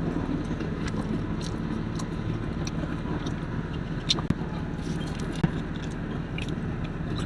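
A person chewing and biting into a taco, with small wet clicks and crunches scattered through, over a steady low hum.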